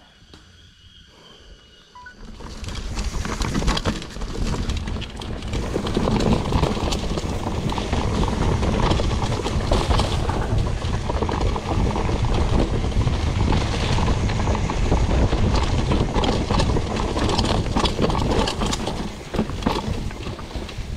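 Mountain bike riding over a rough dirt trail, starting about two seconds in: steady rumble of tyres on the ground with dense, rapid rattling and clattering of the bike.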